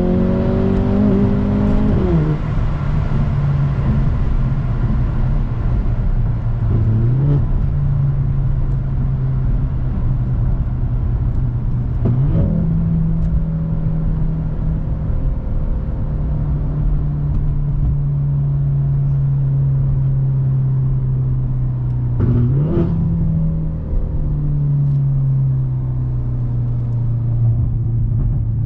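Mercedes-AMG C43 (W206) 2.0-litre turbocharged four-cylinder running through an aftermarket Fi exhaust and catless downpipe, droning at a steady pitch while driving. Several times the revs jump up briefly and settle again, most sharply about twelve and twenty-two seconds in.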